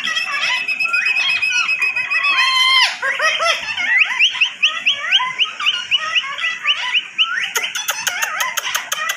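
Parrot chattering and squawking in a fast string of short calls that swoop up and down in pitch. Near the end, a quick run of sharp clicks sounds along with the calls.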